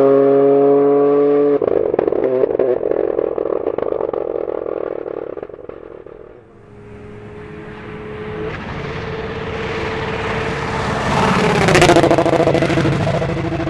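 Rally2 cars running flat out past the listener: one accelerates hard with a rising engine note that breaks off suddenly and fades away. About six seconds in, another car approaches, getting louder, with sharp pops and a falling engine note near the end as it goes past.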